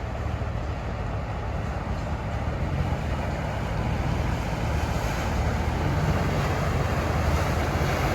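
A dive charter boat's engines running as it approaches: a steady low rumble that grows gradually louder, with wind on the microphone.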